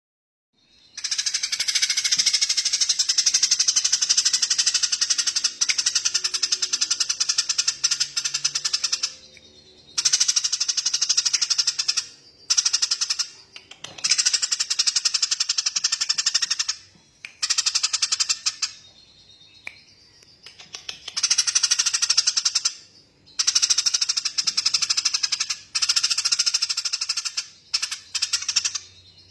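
A small songbird's long, very rapid rattling trills, high-pitched, in bouts of several seconds broken by short pauses.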